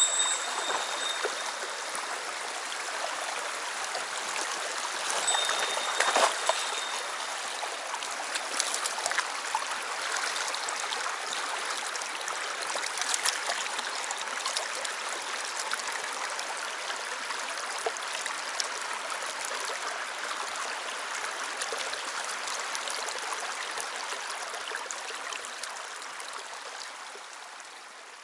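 Mountain stream water rushing steadily over rocks, fading out near the end.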